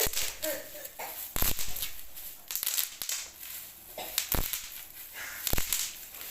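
A tightly packed electric kettle being worked out of its cardboard box: several sharp knocks on the box, among crinkling packaging.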